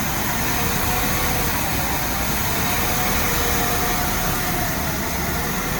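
Truck-mounted road sweeper on a DAF LP 230 chassis running steadily: a constant rushing noise with a faint wavering whine.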